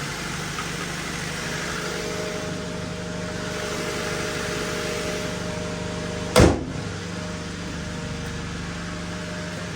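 1999 Honda Civic's four-cylinder engine idling steadily after a fuel filter change, sounding healthy. A single heavy slam comes about six seconds in.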